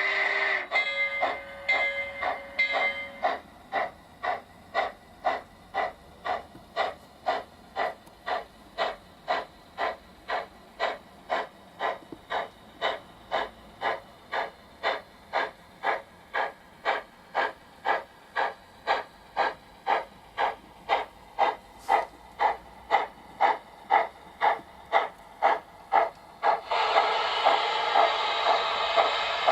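Sound decoder of a Trix model of the Union Pacific Big Boy steam locomotive: a whistle blows for the first few seconds, then steady steam chuffs follow at about two a second. A loud steam hiss joins the chuffs near the end.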